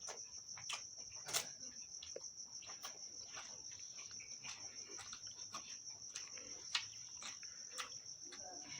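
Close-up mouth sounds of someone eating: irregular wet chewing and lip-smacking clicks, over a continuous high, finely pulsing chirring of crickets.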